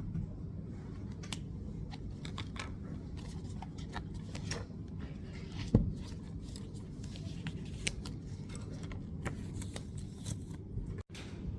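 Scattered light clicks and taps over a steady low hum, with one louder knock a little past halfway; the sound cuts out briefly near the end.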